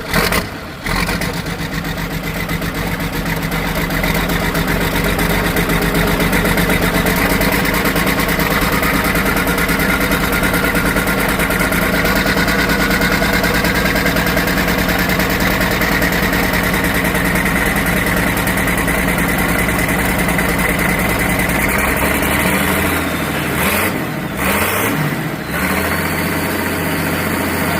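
A large diesel farm tractor engine starts and runs, its speed climbing slowly over about twenty seconds. Near the end it drops back to a lower, steadier note, with a few short knocks.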